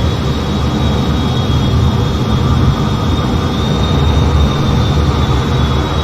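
Steady jet noise from an F-15: a heavy low rumble with a thin high whine held throughout.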